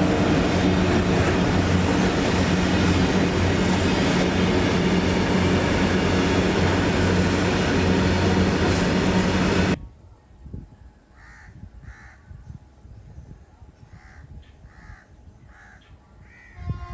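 An express train passing at speed, a loud steady rush of wheels and wind with a low hum, which cuts off abruptly about ten seconds in. After that it is quiet except for crows cawing, about six single caws.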